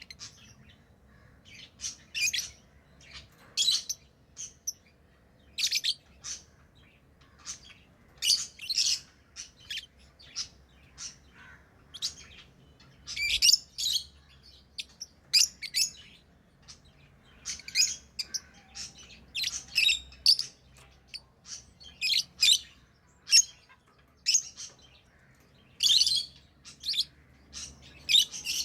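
Lovebirds chirping: a string of short, shrill calls at irregular intervals, about one or two a second.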